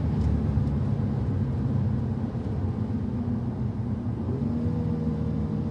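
Car engine running steadily under a constant haze of road and tyre noise, heard from inside the car. The engine note shifts slightly about four seconds in.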